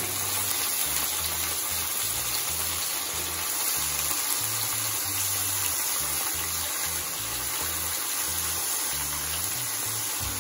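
Raw jackfruit pieces and fried onions sizzling steadily in hot mustard oil in a kadhai. Low background music with a stepping bass line plays underneath.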